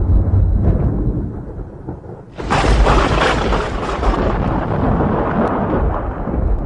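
Thunder: a low rumble dies down, then a sharp close crack comes about two and a half seconds in and rolls on into a long rumble that slowly fades.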